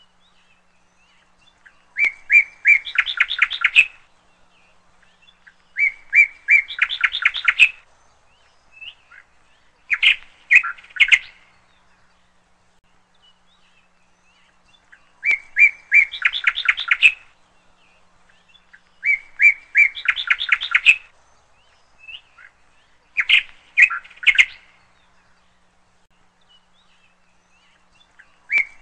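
A songbird singing a short phrase of rapid, quickly repeated notes over and over, about every four seconds, with quiet gaps between phrases.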